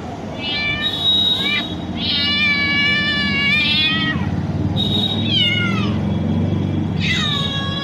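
A cat meowing four times. The second meow is long and drawn out, and several end falling in pitch.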